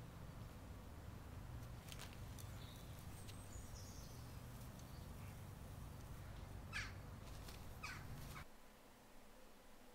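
Faint bird calls, two short harsh calls near the end, over a low steady rumble that cuts off suddenly about a second and a half before the end.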